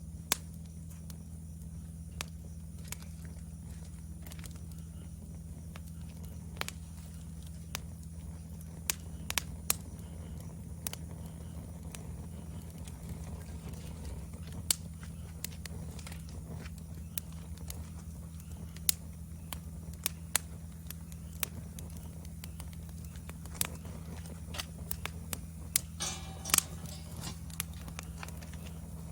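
Wood fire crackling: scattered sharp pops and snaps at irregular moments over a steady low rumble, with a denser run of crackles about 26 seconds in.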